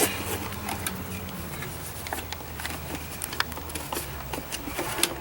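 Scattered light clicks and taps of small parts being handled and fitted on a lawnmower's plastic carburetor, over a steady low hum.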